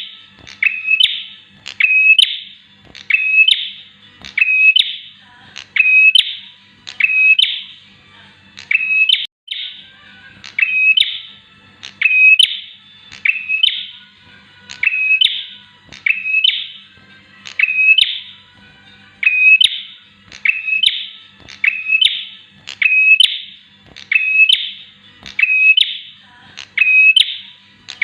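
Bar-winged prinia (prenjak) calling over and over: one sharp, high chirp after another, evenly spaced at a little more than one a second.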